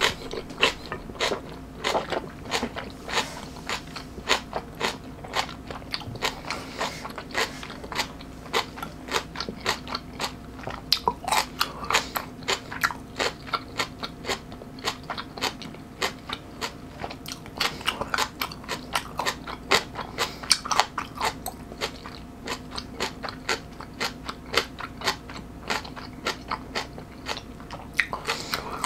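A person chewing close to the microphone: fast crisp crunching of napa cabbage kimchi and fermented skate, several crunches a second.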